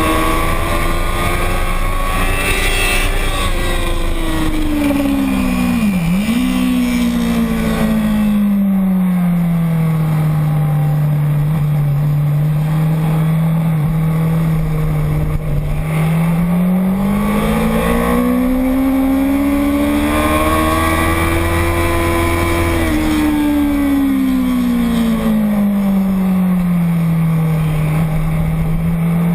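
Motorcycle engine on a racetrack lap, its pitch falling and rising as the throttle changes, with a brief sharp dip about six seconds in, over a steady low rush of wind.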